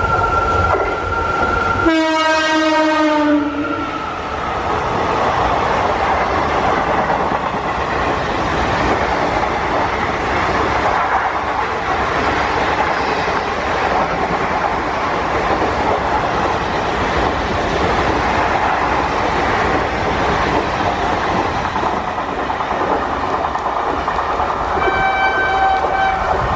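Indian Railways train horn sounding: a steady high note, then a lower, fuller blast that drops slightly in pitch as the locomotive goes by. The train then runs past with a steady rumble and wheels clattering over the rail joints, and another horn blast starts near the end.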